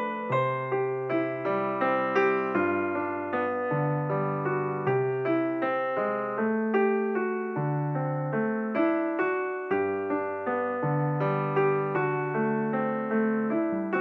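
Background solo piano music: a gentle melody of evenly paced notes over low held bass notes.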